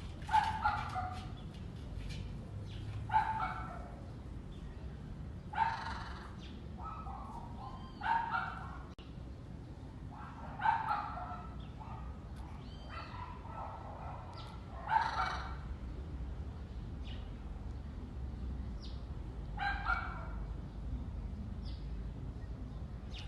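Harsh animal calls repeated about every two to three seconds, each under a second long, over a steady low rumble.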